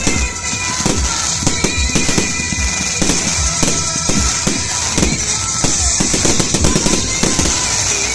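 Fireworks going off in a dense run of bangs and crackling, several a second, over a steady fizzing hiss, with music playing alongside.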